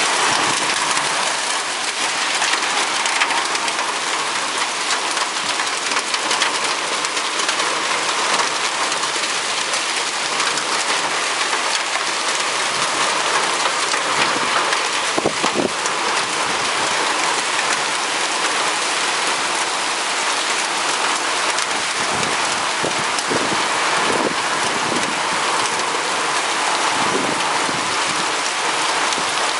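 Torrential thunderstorm downpour: a steady, dense rush of heavy rain with a few scattered sharper hits, from a little pea-size hail mixed in with it.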